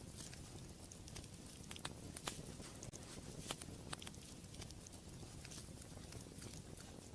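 Wood fire in a fireplace crackling, with scattered sharp pops over a low steady rumble of the flames; the loudest snaps come about two, three and a half and four seconds in.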